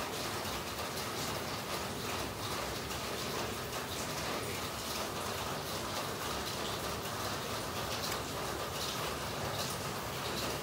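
Steady rain falling, an even hiss with the patter of many drops.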